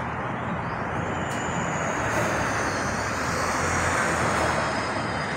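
Steady engine rush of a passing vehicle, swelling a few seconds in, with a faint high whine that falls slowly in pitch as it goes by.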